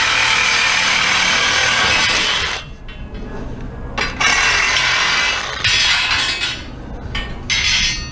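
Scrap metal scraping along steadily for a couple of seconds, then a series of short clinks and clanks as pieces are handled and shifted.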